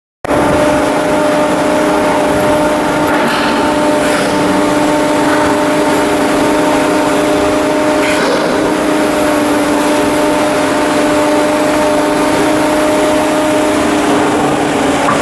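Steady machine noise: a constant hum with a few held tones under an even hiss, cutting in suddenly at the start, with a few faint ticks along the way.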